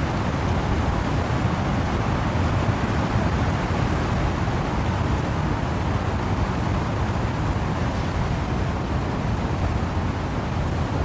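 Steady windy rain and wind through trees as a dense, even rushing noise, heaviest in the low end, with no single drops, gusts or other events standing out.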